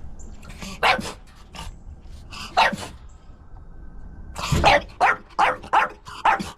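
Dog barking: a few separate barks, then a quick run of about eight barks starting some four and a half seconds in.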